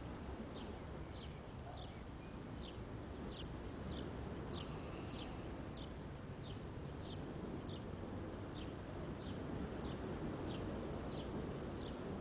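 A bird repeating a short, high chirp about one and a half times a second, over a steady outdoor rushing noise.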